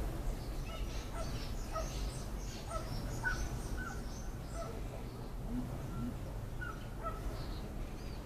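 Several birds calling outdoors: many short, scattered chirps and squawks, some calls bending up in pitch, over a steady low rumble.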